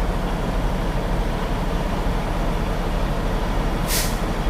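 Semi truck's diesel engine idling with a steady low rumble, and a short hiss of air near the end.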